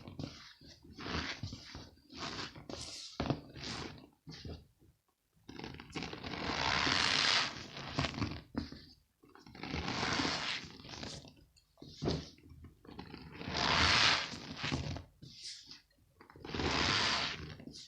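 Balls of packed cornstarch squeezed and crushed by hand, giving crunchy squeaks. Quick short crunches come first, then about five seconds in four longer drawn-out squeezes follow, roughly every three seconds.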